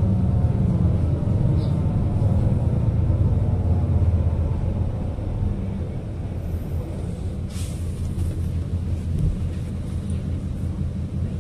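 City bus running, heard from inside the cabin: a low rumble with an engine and gearbox whine whose pitch falls over the first few seconds as the bus slows, then a quieter run. About seven and a half seconds in comes a brief hiss of air from the air brakes.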